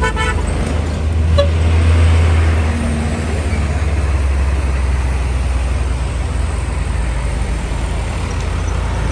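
Heavy diesel vehicle driving past close by: a low engine drone with road noise, loudest about two seconds in, then settling to a steady rumble.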